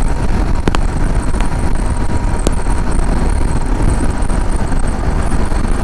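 Motorcycle on the move: steady low rumble of wind buffeting the camera mic mixed with engine and road noise from a Triumph Tiger 800, with a couple of sharp clicks.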